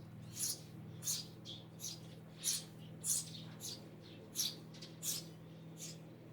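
Eurasian tree sparrows chirping: about ten short, high chirps, roughly one every half second, over a steady low hum.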